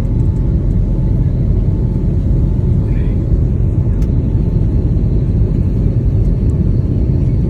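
Steady, loud rumble of airliner cabin noise as the plane climbs after takeoff: engine and airflow noise heard from inside the cabin.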